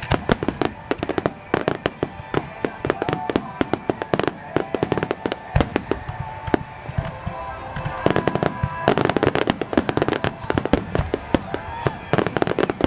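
Aerial firework shells bursting in a dense, rapid barrage of overlapping bangs and crackles, thickest about two-thirds of the way through and again near the end.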